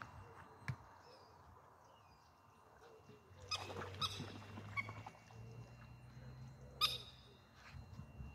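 A few short bird calls, faint: a small cluster of calls around the middle and one louder, sharper call a little before the end, over quiet outdoor background.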